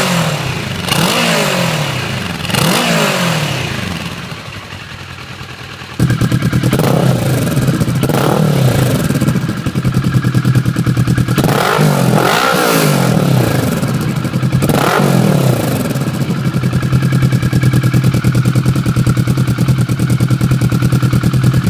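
A 2011 Kawasaki ER-6n's parallel-twin engine idling and blipped through quick revs, each rising and falling back to idle. About six seconds in the sound changes abruptly to a louder idle with several more rev blips, as the recording switches between the two exhausts being compared, stock and MTC slip-on.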